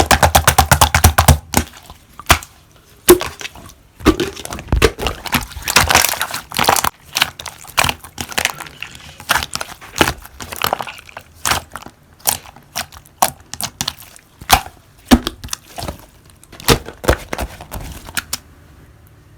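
Slime being pressed and pulled by hand, giving sharp crackling clicks and pops. It opens with a fast run of clicks, then goes on in irregular crackles and short squishes, and stops shortly before the end.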